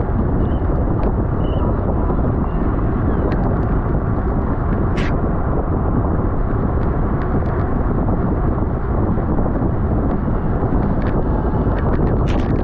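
Wind buffeting the microphone of a camera riding on a racing bicycle at speed: a steady, loud rush of noise, with a few faint clicks and one sharp tick about five seconds in.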